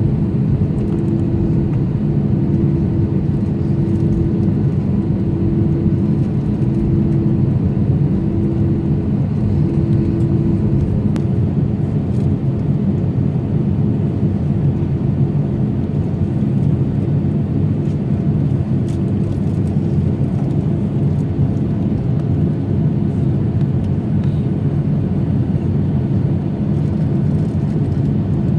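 Steady, loud, low engine rumble. A hum pulses on and off over it for the first ten seconds or so.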